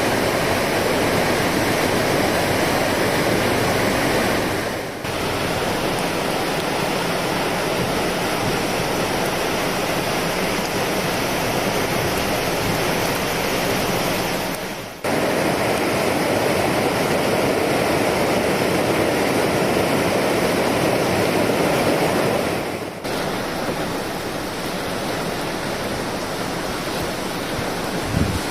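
Rushing water of the Tonda River swollen by Typhoon No. 12's rains: a loud, steady roar. It dips briefly three times where shots change.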